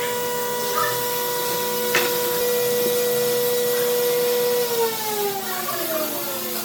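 Electric power tool's motor running at a steady pitch, then switched off about two-thirds of the way through and winding down, its hum falling steadily in pitch.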